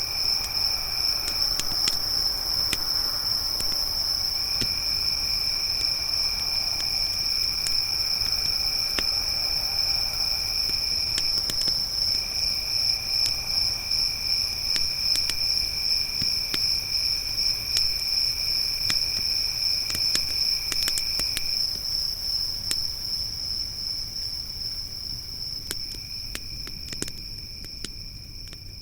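Crickets trilling in one steady high pitch, with a second, lower insect trill that stops and starts again several times, over the scattered sharp pops and crackles of a wood campfire. The whole sound fades down over the last several seconds.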